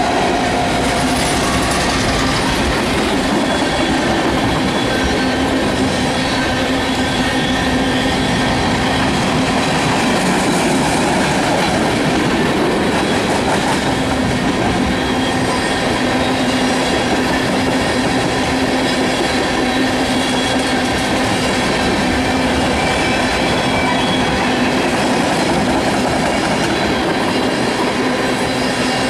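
Freight train's tank cars rolling past close by: steady rumble of steel wheels on rail, with held squealing tones from the wheels running under it.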